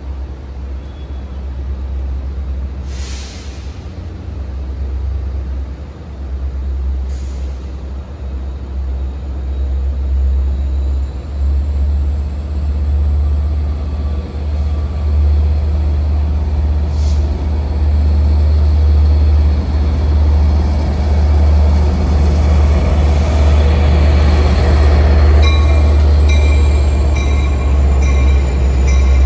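Long Island Rail Road train approaching, a heavy rumble that grows steadily louder, with thin high squealing tones joining in over the last few seconds.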